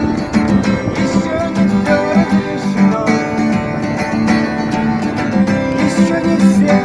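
Guitar strummed in a steady rhythm, playing the song's chords in an instrumental stretch between sung lines.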